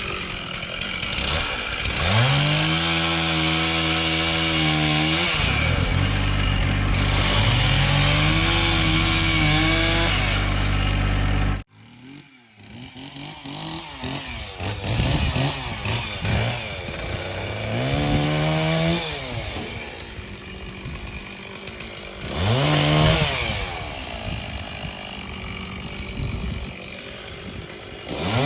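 Chainsaw revving up and running at high speed, its pitch sagging and recovering as it works through the cut. It breaks off abruptly about halfway through, then comes back in several short revs.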